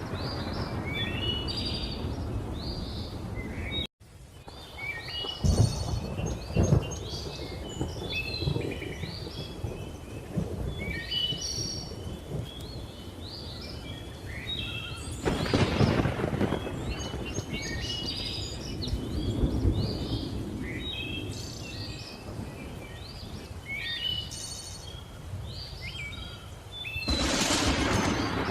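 Many birds calling and chirping over low rolling thunder that swells about a quarter of the way in and again near the middle, with a rushing hiss of rain rising near the end. The sound cuts out for an instant about four seconds in.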